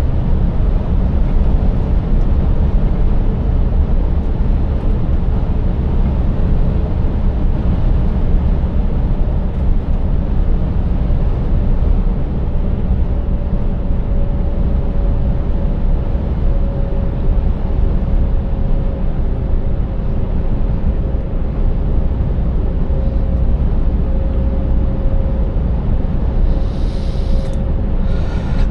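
Scania 590S truck's 16-litre V8 pulling steadily along with tyre and road noise: a constant low rumble, with a faint even hum holding one pitch through the second half.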